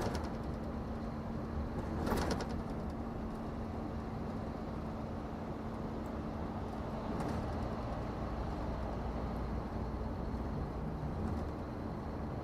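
Scania truck's diesel engine running steadily under way, heard from inside the cab as a low rumble with a constant hum, with a brief rattle about two seconds in.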